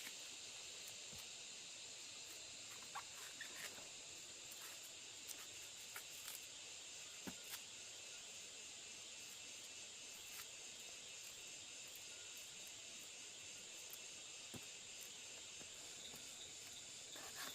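Faint, steady high-pitched insect chorus, with scattered brief clicks and rustles of handling.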